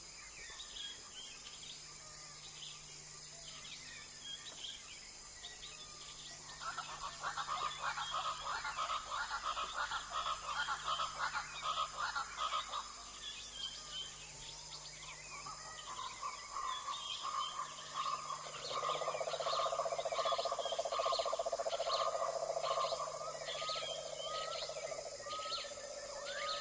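Amazon rainforest wildlife chorus: a steady high insect buzz under many short repeated chirps and calls. A fast pulsing call rises about a quarter of the way in and fades about halfway. A lower steady trill, the loudest sound, starts about two-thirds of the way in and stops shortly before the end.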